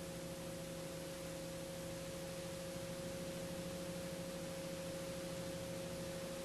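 A faint, steady hum of a few fixed tones over a hiss, unchanging throughout.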